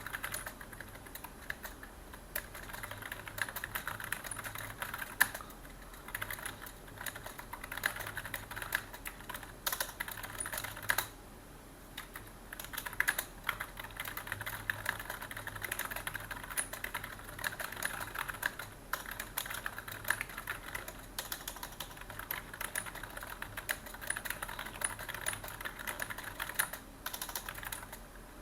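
Computer keyboard typing: quick runs of keystrokes broken by short pauses, with one longer pause about twelve seconds in and a few harder single key strikes.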